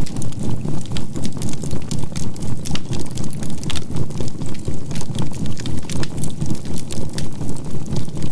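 Campfire crackling with many small sharp pops over a low rushing rumble, mixed with a steady 528 Hz tone and a binaural-beat drone. The mix pulses evenly about three to four times a second.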